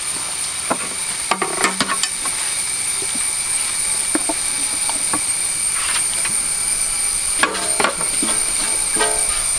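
Pieces of marinated pork being tipped into a large aluminium pot of hot frying onions, sizzling and hissing, with scattered knocks and clatters of the bowl and ladle against the pot. A steady high-pitched whine runs under it.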